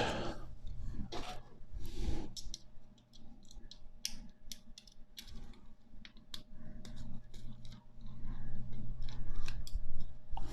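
Bicycle spokes clicking and scraping against one another as a spoke is woven under the third crossing and fitted into the hub and rim while lacing a Raleigh Chopper rear wheel: a run of small, irregular metal clicks.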